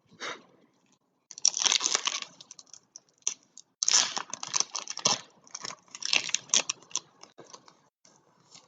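Trading card pack wrappers crinkling and tearing, with cards handled, in three main bursts of crackle about a second long each and small clicks between.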